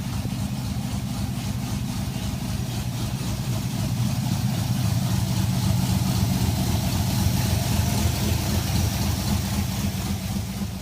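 Car engine idling steadily, a little louder in the middle.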